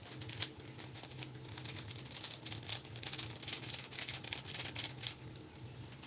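Light, irregular clicks and rustling from food and utensils being handled while the noodles are prepared, over a steady low hum.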